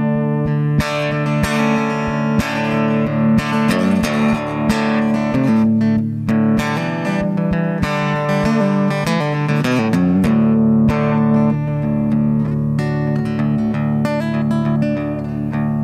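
Guitar played through a Kemper Profiler, chords struck and left ringing, with the notes changing through the middle.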